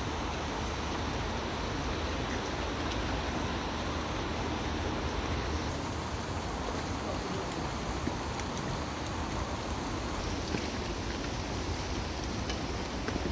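Steady rain falling: an even hiss with a few small drops ticking.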